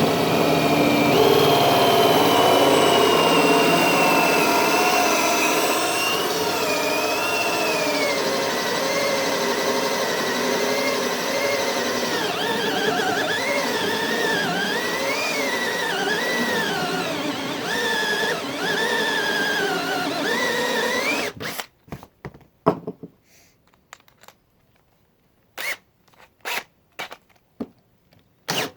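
Power drill driving a hole saw into wood with no pilot bit, the cut started on one side of the saw's rim: a steady run with a wavering high-pitched tone over the cutting noise. About 21 seconds in it stops, followed by several short bursts.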